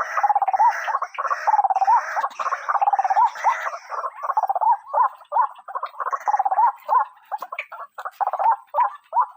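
White-breasted waterhen calling: a rapid run of harsh, croaking notes, each briefly rising and falling in pitch, several a second, thinning out near the end. This is the call used to lure the bird.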